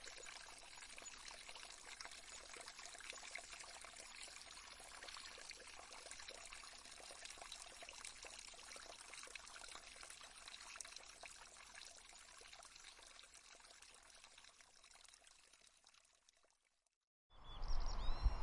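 Stream water babbling and trickling steadily, fading out about sixteen seconds in. After a moment of silence, a new background with a low hum and a few faint chirps starts near the end.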